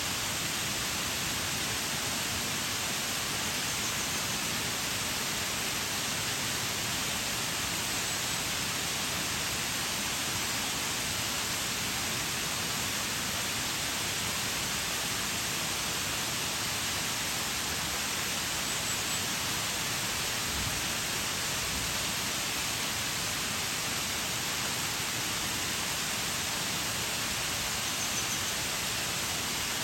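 Shiraito Waterfall pouring: a steady, unbroken rush of falling water, with a hiss in the upper range and no change in level.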